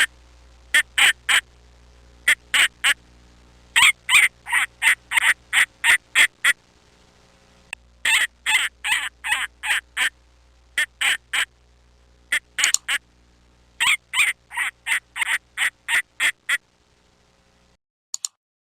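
Duck quacking: runs of short, rapid quacks, several a second, broken by brief pauses, which stop a couple of seconds before the end.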